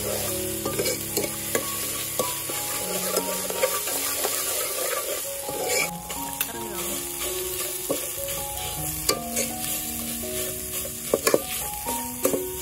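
Spice paste frying and sizzling in hot oil in a steel pot, with a metal ladle stirring and scraping, and scattered clicks of metal against the pot.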